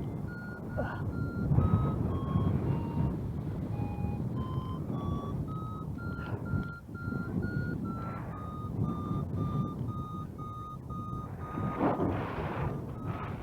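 Paragliding variometer beeping a few times a second, the climb tone that signals the glider is rising in lift. Its pitch dips, then rises and settles as the climb rate changes. Wind rushes over the microphone underneath.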